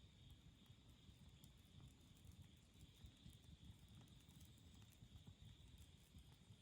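Faint wood campfire burning, with soft crackles and small scattered pops.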